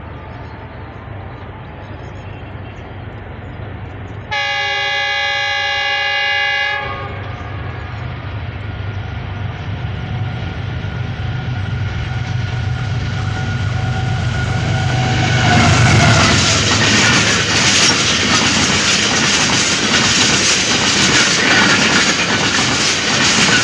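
Pakistan Railways GEU-40 diesel-electric locomotive approaching at speed with an express passenger train, its engine humming and growing louder. About four seconds in it sounds its horn once for about two and a half seconds. About fifteen seconds in its engine note drops in pitch as it passes, and then the coaches rush by with a rapid clickety-clack of wheels over the rail joints.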